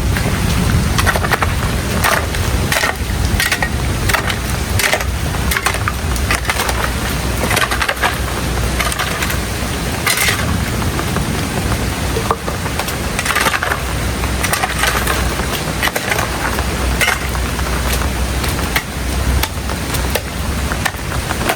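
Irregular sharp knocks and cracks of wood over a low, steady rumble.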